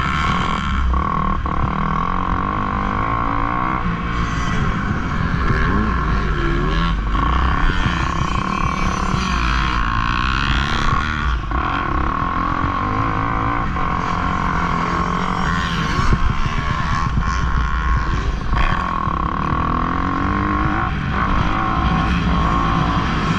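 Motocross dirt bike engines running hard, revving up and down through the gears.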